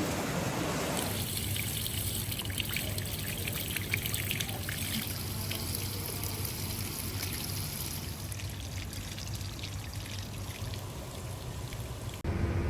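Water trickling, with many small splashes and drips. It stops abruptly near the end, where a different sound cuts in.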